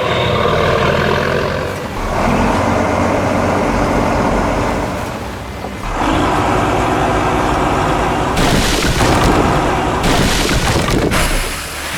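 Heavy construction-vehicle engine sound effects running in stretches of a few seconds, with bursts of hiss in the last few seconds.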